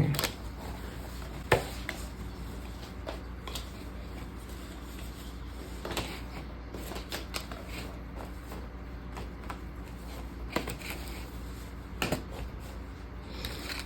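Hands rustling and shifting paper, cardstock and packaging, with a few light clicks and taps as items are handled.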